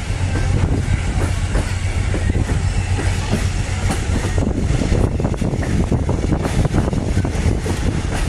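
Passenger train rolling along the track, heard from aboard: a steady low rumble with a constant patter of clicks and knocks from the wheels and car running over the rails.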